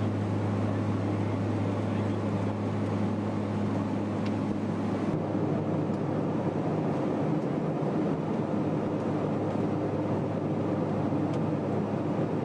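Steady engine drone with a constant low hum, unchanging in level throughout.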